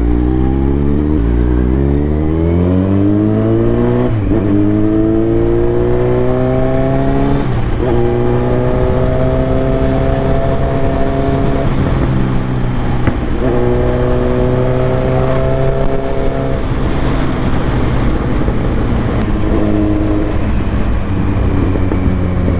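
Kawasaki Z900 inline-four engine accelerating through the gears. The pitch climbs, breaks at an upshift about four seconds in and again a few seconds later, then holds steady. It dips briefly partway through, picks up again and eases off near the end.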